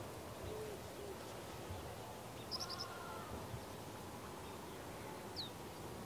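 Faint bird calls over a steady hiss: two low, arching notes in the first second, a quick cluster of high chirps about two and a half seconds in, and a single short falling high note near the end.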